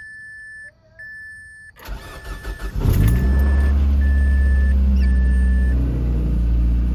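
A car's warning chime beeps about once a second. The starter cranks the engine, which catches about three seconds in and settles into a steady idle. This is the first start after an oil change.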